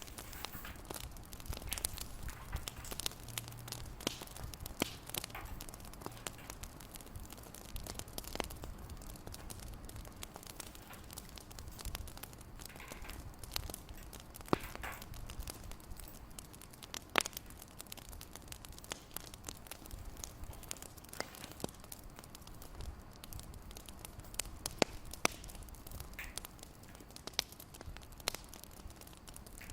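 A wood fire crackling in a fireplace: irregular sharp pops and snaps over a low steady rumble.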